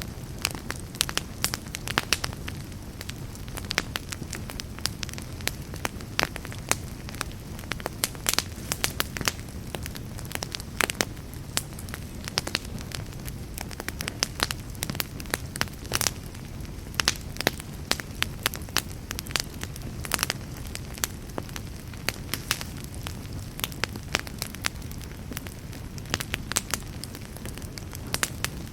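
Fireplace fire crackling: a steady low rumble of flame with many sharp crackles and pops, several a second.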